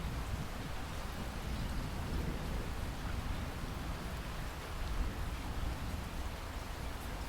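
Steady rain falling, with the low rumble of a thunderclap dying away over the first few seconds.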